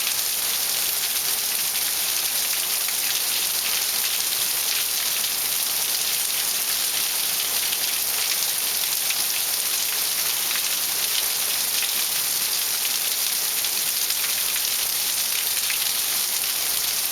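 Steady heavy rain falling and pattering on surfaces: a dense, even hiss of many close drops.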